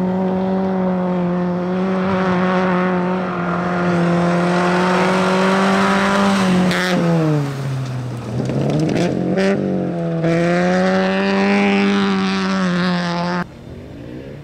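Rally car engine running hard at high, steady revs. About seven seconds in, the pitch falls as the car slows and then climbs again, with a few sharp cracks around the dip. The sound stops abruptly near the end.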